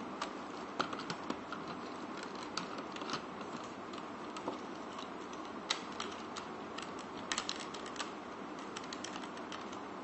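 Irregular small clicks and snaps of hard plastic toy parts being handled and pushed into place, over a steady background hiss.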